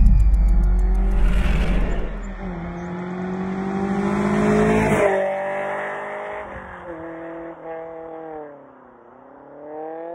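A car engine accelerating hard, opening with a heavy rumble. Its pitch climbs steadily, breaks sharply about halfway through as at a gear change, then dips and climbs again near the end.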